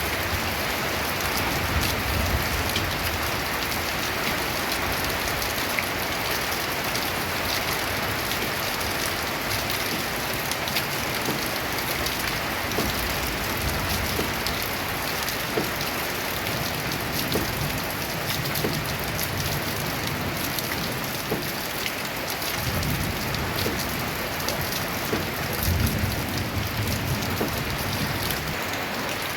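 Rain falling steadily on a tin roof, a dense even patter of drop ticks. Several low rumbles of a few seconds each come and go, mostly in the second half.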